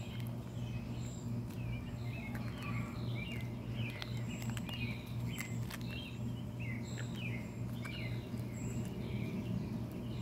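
Birds chirping: many short, quick calls, most falling in pitch, repeated over a steady low hum, with a few faint clicks.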